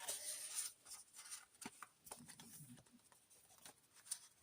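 Faint rustling and small clicks of paper as the pages and loose inserts of a handmade paper journal are handled, with the fullest rustle in the first half second.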